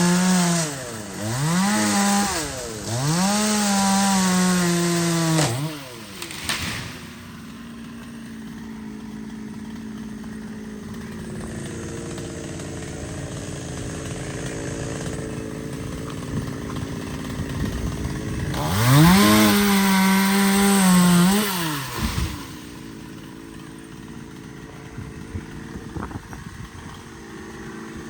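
Two-stroke chainsaw revved to full throttle three times in quick succession, each rev held briefly and dropped back. It then idles for about twelve seconds, revs up once more for a few seconds, and drops back to idle.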